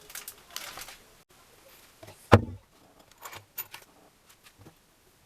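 A single loud knock about two seconds in, then a few light clicks and ticks, like parts or tools being handled.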